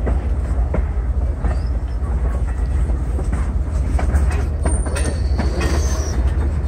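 Passenger train rolling through a switch: the wheels click over the rail joints and switch points, with brief faint high wheel squeals, over a steady low rumble.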